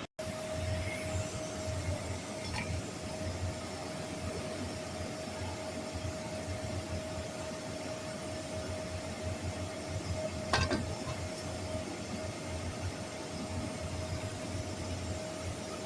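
Steady mechanical hum with a constant high whine over it, and a single sharp click about ten and a half seconds in.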